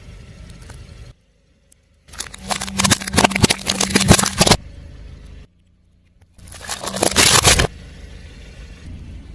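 A car tyre rolling over and crushing brittle objects: a burst of dense crackling and snapping lasting about two and a half seconds, then a shorter one near the end, with a low steady hum in between.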